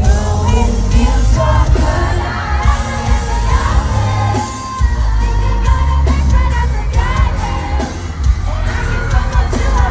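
Live pop concert heard from within the crowd: amplified band with heavy bass and a lead vocal, with the audience singing and cheering along.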